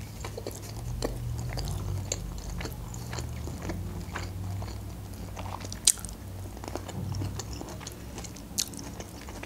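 Close-miked chewing of soft fusilli pasta with the mouth closed: small wet mouth clicks over a low steady hum, with two sharper clicks about six and eight and a half seconds in.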